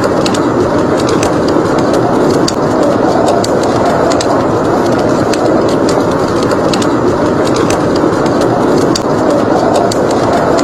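Wood fire crackling with many small sharp pops over a steady, rushing blizzard wind.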